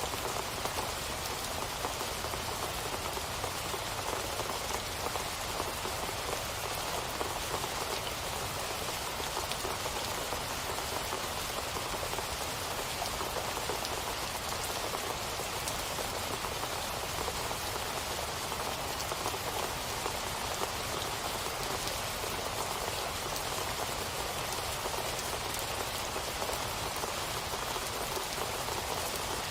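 Steady rainfall, an even patter of drops with no thunder.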